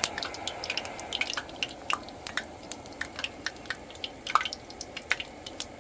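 Flattened biscuits frying in hot oil in a pan: a steady sizzle with irregular crackles and pops.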